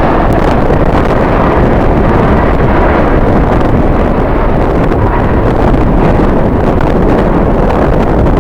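Strong wind buffeting the microphone, a loud steady rumble with no break.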